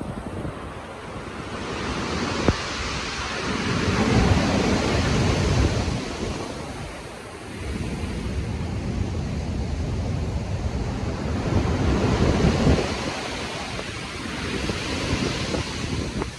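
Stormy sea: waves breaking and washing in, swelling and falling back in surges several seconds long, with wind blowing over the water.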